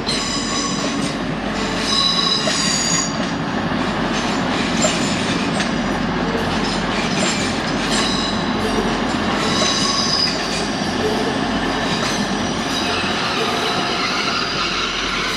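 A train moving through the station: a steady rumble of wheels on the track, with high-pitched metallic squeals during the first few seconds and again about ten seconds in.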